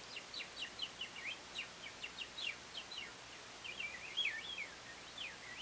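American robins chirping: a run of short, quick chirps, with a longer warbled phrase about two-thirds of the way through.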